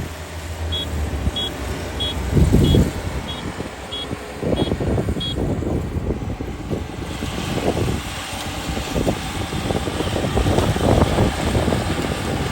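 Kubota ER572 combine harvester running, with irregular clattering from the machine. In the first half, an electronic warning beeper sounds eight short, high beeps at an even pace, then stops.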